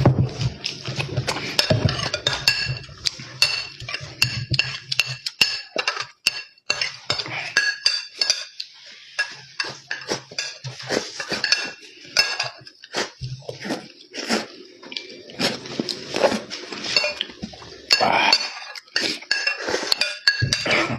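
Eating utensils clinking and tapping against dishes during a meal, a quick irregular run of sharp clicks with a faint metallic ring.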